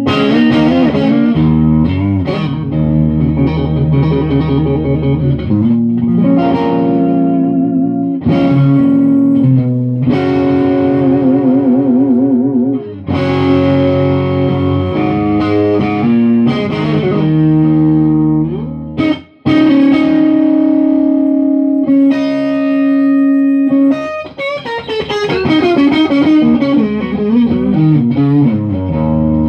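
Electric guitar with Lindy Fralin high-output pickups played solo through an amp: held notes with wide vibrato, and near the end the pitch swoops down and back up.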